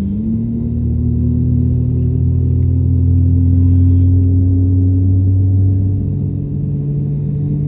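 Airbus A320neo jet engines running with a steady low drone, one tone in it rising slowly in pitch.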